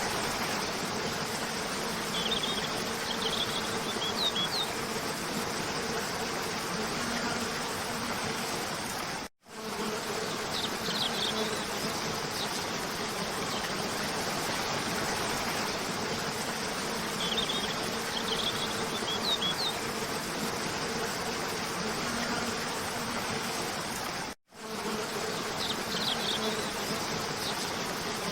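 Waterfall rushing steadily, with a high steady hiss over it and short bursts of bird chirps that recur every several seconds. The sound drops out abruptly for a moment twice, where the looped recording restarts.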